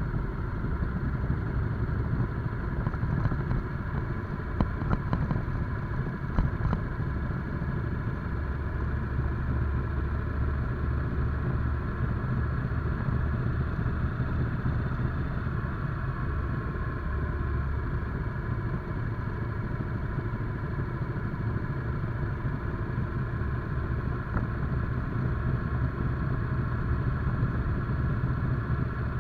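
Motorcycle engine running steadily while being ridden at low speed, with a few sharp clicks a few seconds in.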